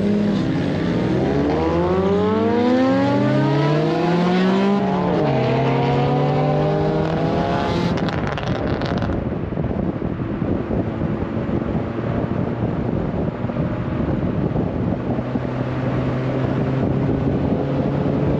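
Car engine accelerating hard, its pitch climbing for the first few seconds, dropping at a gear change about five seconds in, then settling to a steady cruise. Wind rushes past the open window once the car is up to speed.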